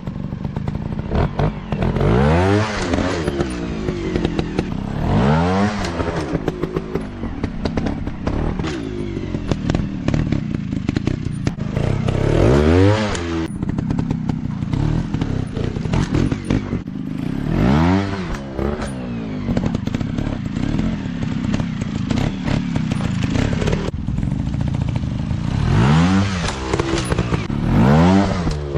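Small 150 cc dirt-bike engines revving up and dropping back again and again, several times in the stretch, with clattering and scraping throughout.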